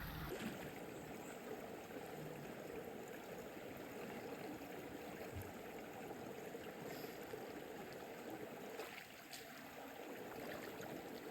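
Small rainforest creek running over rocks, a steady, faint rush of water.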